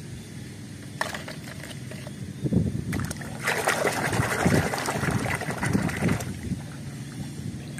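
A hand sloshing and swishing through water in a plastic basin, rinsing a muddy toy. The splashing is busiest and loudest for a few seconds in the middle.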